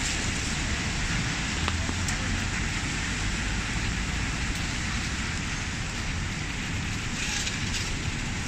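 Steady hiss of rain falling on a city street, with a low rumble of traffic underneath.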